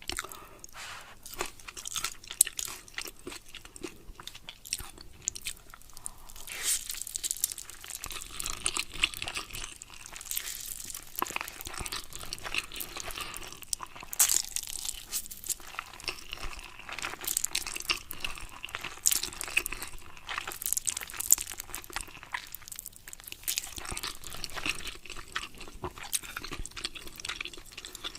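Close-miked eating: a person biting and chewing crunchy food, with dense, irregular crackling crunches and a few sharper bites standing out.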